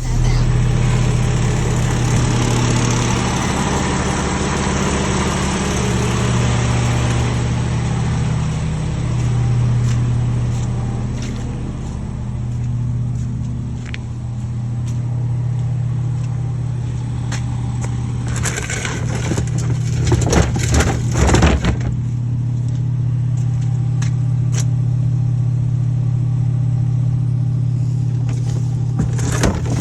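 Garbage truck's engine running steadily throughout. It is joined by a hiss over the first several seconds and a burst of knocks and clatters about twenty seconds in.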